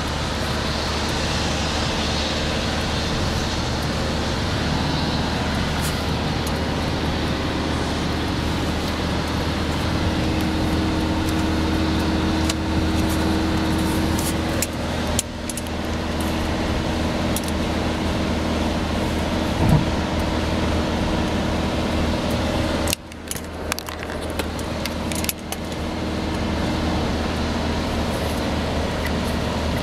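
Inside the cabin of a 2011 Fiat Doblò on the move, with windows shut and the air conditioning off: steady wind and road noise over a low engine drone, with scattered small ticks. The owner presents this as unusual wind noise. The noise drops away abruptly twice, about two-thirds of the way through.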